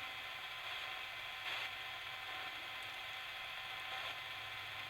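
Steady static from a spirit box radio sweeping the FM band, with a brief louder burst about a second and a half in.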